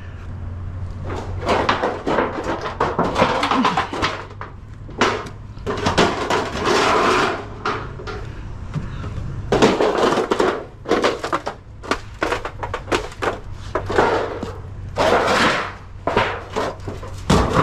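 A bulky scrap item crunching and crackling as it is squashed down by force, in repeated irregular crushing bursts.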